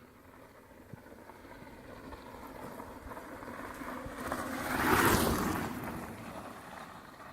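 Braaap 60-volt electric motorcycle riding past: a faint motor whine under tyre and wind noise that swells to a peak about five seconds in, then fades.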